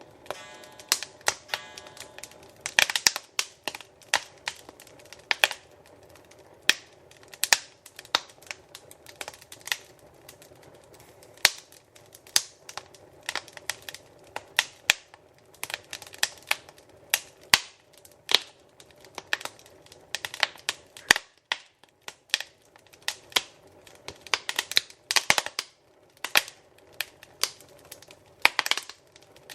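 Wood fire crackling in a fireplace, with sharp irregular pops and snaps, some coming in quick clusters, over a faint steady hiss.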